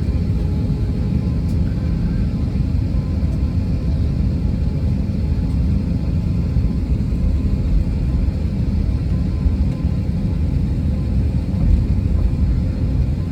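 Airbus A321 jet airliner, a steady low rumble with no rise or fall in pitch.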